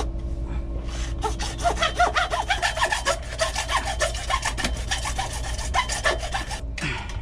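Hand saw cutting through PVC sump-pump discharge pipe in rapid back-and-forth strokes. The sawing stops abruptly near the end, as the cut goes through.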